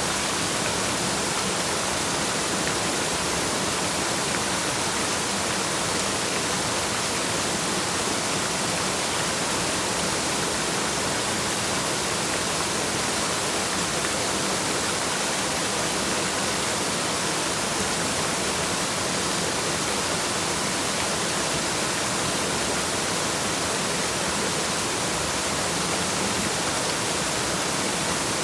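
Waterfall: a steady, unbroken rush of falling water, with most of its energy in the hiss of the high frequencies.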